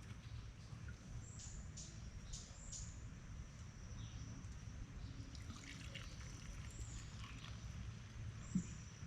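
Faint trickling water with birds chirping now and then, and a single short knock near the end.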